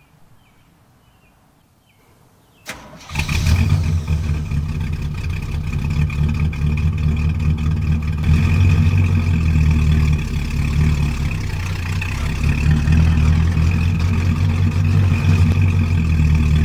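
1966 Pontiac GTO's 389 V8 starting about three seconds in, right after a sharp click, then running with a steady low rumble as the car drives off.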